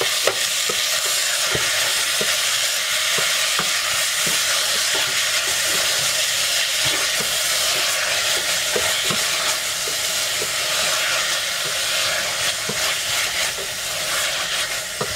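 Ground beef and diced tomato frying in oil in a stainless steel pot, sizzling steadily, while a plastic spatula stirs and scrapes the pot, with irregular light knocks.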